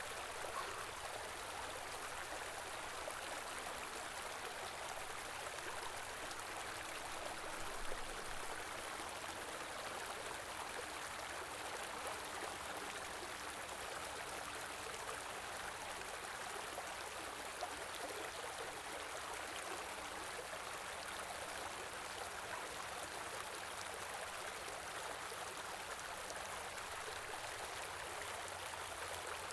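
Small river or stream flowing steadily, a continuous rush of water with light gurgling.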